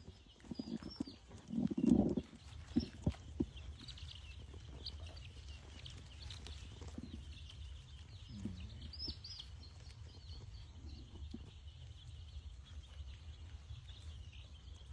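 A flock of brooding chicks peeping steadily over a low hum, with a loud thump and a few sharp clicks about two to three seconds in.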